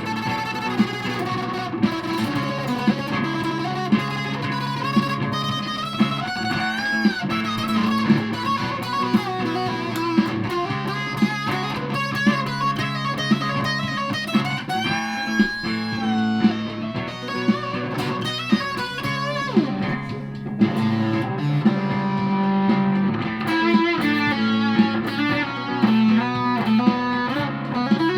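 Aria Pro II Thor Sound electric guitar played through a super fuzz pedal: fuzzed lead lines with bent, sustained notes over a held low note, worked with mandolin-like picking.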